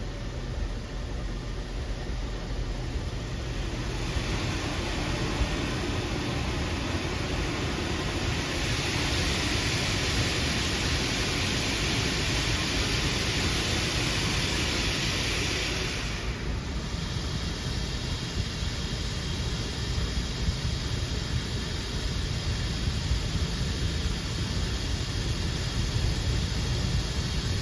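Automatic car wash running: steady machine noise with spraying water. A louder hissing spray builds about a sixth of the way in and stops sharply a little past halfway.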